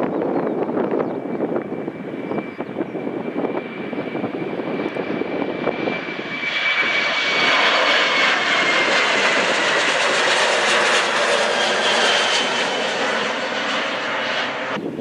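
Jet airliner passing close by. A faint whine over wind on the microphone grows, about six seconds in, into a loud engine roar with a high whine that slowly drops in pitch as the aircraft goes past.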